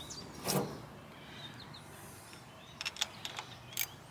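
Faint birds chirping outdoors, with a brief whoosh about half a second in and a handful of sharp clicks near the end.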